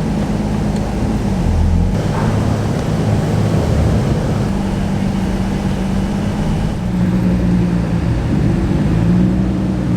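Car engine running at low speed under a steady low rumble, with its pitch shifting a little as the car rolls slowly along.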